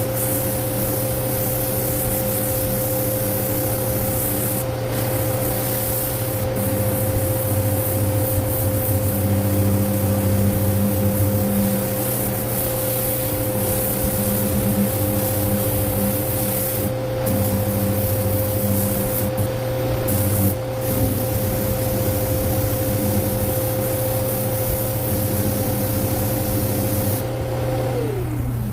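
Power sander running steadily with a high air hiss and a constant whine, its motor spinning down just before the end.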